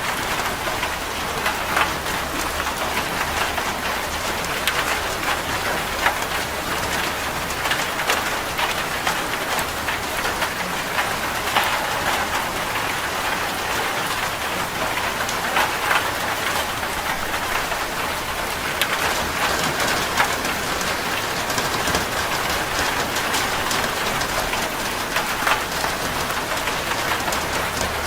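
Steady rain falling on a corrugated zinc roof: a dense, even patter of drops hitting the metal, with single louder drop strikes standing out here and there.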